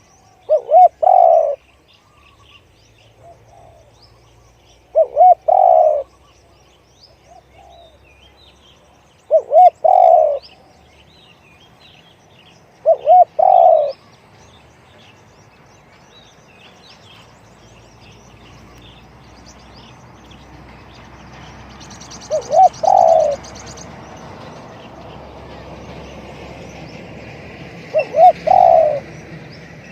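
Spotted dove cooing: six phrases spaced several seconds apart, each a quick pair of short notes leading into a longer low coo. Small birds chirp faintly in the background.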